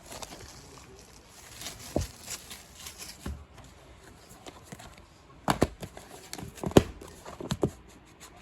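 DVD packaging being handled and opened: light plastic crinkling with scattered sharp clicks and taps, which come thick for the last few seconds.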